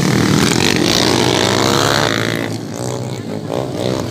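Motocross motorcycle engines running hard on the track, the engine note rising and falling as the bikes rev and change throttle, easing off a little after about two and a half seconds.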